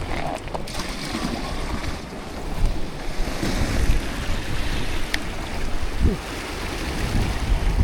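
Wind buffeting the microphone over sea waves washing against shore rocks, a steady rushing noise with gusty low rumbles and a faint click about five seconds in.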